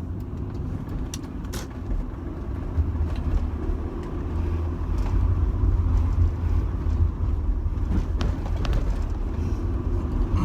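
Inside the cabin of a 2005 Rover 25 GSi on the move: steady engine and road rumble that grows louder about four seconds in, with a few faint clicks.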